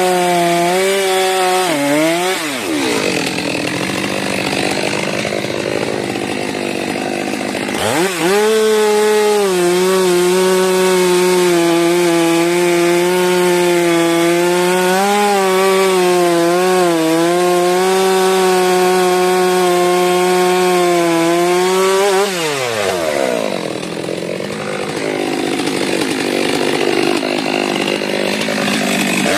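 Stihl MS 462 two-stroke chainsaw running at high revs while cutting wood. The engine pitch drops about two seconds in and again near the end, with noisier stretches of chain working through the wood in between.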